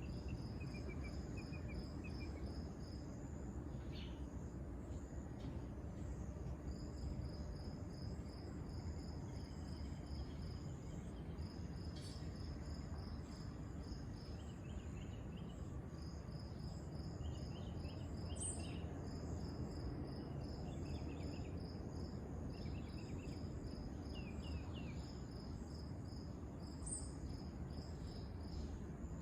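Insects chirping in repeated trains of rapid, even pulses, with a few short higher chirps scattered through, over a steady low rumble.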